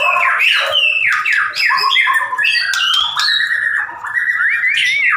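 White-rumped shama (murai batu) singing: a continuous run of quick downward-sweeping notes, then a longer held whistle that wavers near the end.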